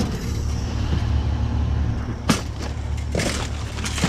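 Knocks and scraping of junk being poked and shifted in a dumpster: a sharp knock right at the start, another about two seconds in, and a rustling scrape about a second later, over a steady low rumble.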